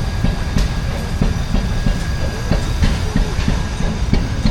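Steam traction engine running, with uneven exhaust chuffs and mechanical clatter over a heavy low rumble.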